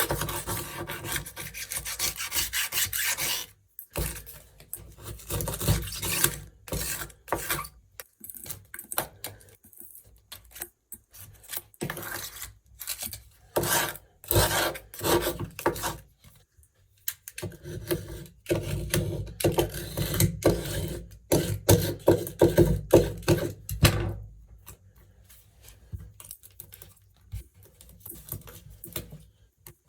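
Old silicone sealant being scraped off a shower tray edge with a hand blade scraper: runs of quick, rasping strokes, stopping briefly in the middle and growing fainter and sparser near the end.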